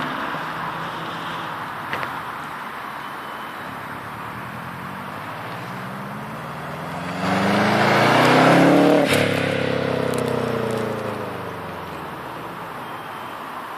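2005 Subaru Impreza WRX's turbocharged flat-four running through a Japspeed aftermarket exhaust, idling and then revved once about seven seconds in. The pitch climbs for about two seconds to a loud peak, then falls back to idle.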